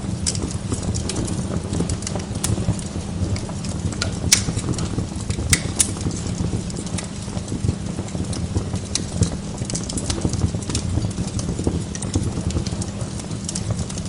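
Wood log fire burning in a fireplace: a steady low rumble of flames under constant crackling, with a few sharper pops about four and five and a half seconds in.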